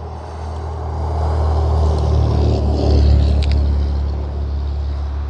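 A motor vehicle passing close by, a low engine and tyre rumble that swells to a peak about three seconds in and then fades.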